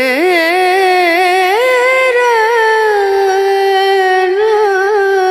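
Music: a single high voice singing one long, unbroken melodic line with wavering, ornamented turns. The pitch steps up about a second and a half in, then holds.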